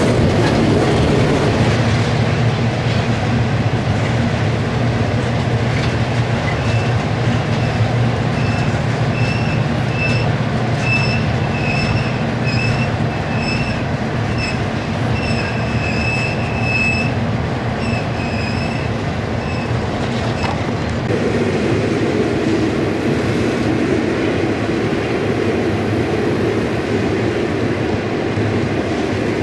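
Ore train rolling past on steel rails with a steady rumble. Intermittent high-pitched wheel squeal runs from about 7 s to 20 s in, and a deeper rumble comes up about two-thirds of the way through.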